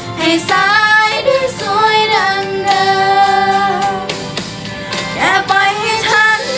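A young female voice singing a Thai pop ballad over a backing track, holding long wavering notes with short slides between them.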